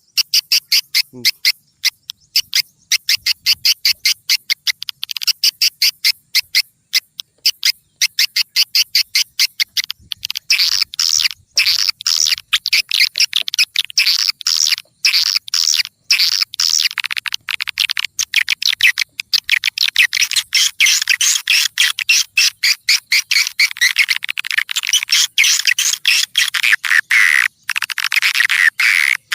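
Recorded swiftlet lure call (suara walet pikat) played back: rapid, unbroken trains of high chittering twitters, with no low sound beneath them. It is a call track used to draw passing swiftlets in to a swiftlet house. The twittering grows fuller about five seconds in.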